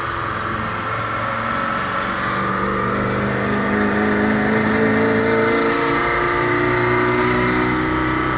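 Detroit Diesel truck engine being revved: the pitch climbs slowly over several seconds, then drops back about six seconds in and holds at a lower speed.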